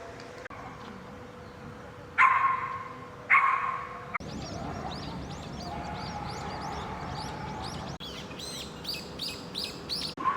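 A dog barks twice, about a second apart. Then comes a run of quick, repeated bird chirps, which grow louder and busier near the end.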